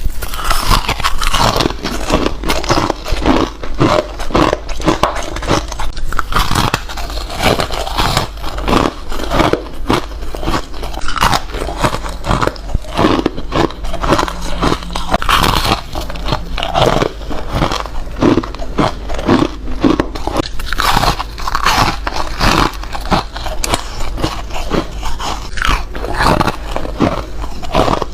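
Close-up biting and chewing of foam ice: a continuous run of crunching, squeaky bites, several a second, with no pause.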